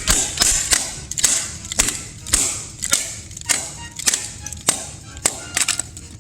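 A regular run of sharp snapping clicks, about two a second, growing fainter.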